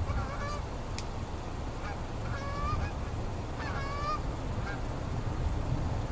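Geese honking in a few short calls of about half a second each, over a steady low rumble, with one sharp click about a second in.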